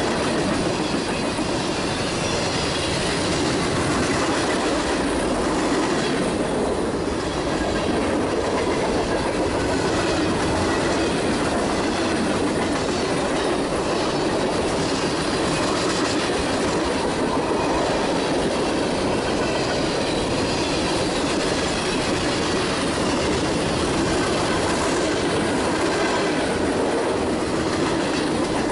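Freight train cars rolling past at close range: steady rolling noise of steel wheels on rail as tank cars, boxcars and flatcars go by.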